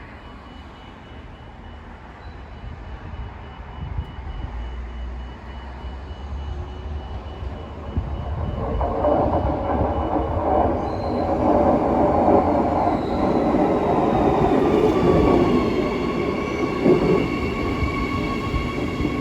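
Passenger train arriving at a station platform. Its rumble builds from about eight seconds in, and as it slows, whines glide down in pitch and settle into steady squealing tones near the end.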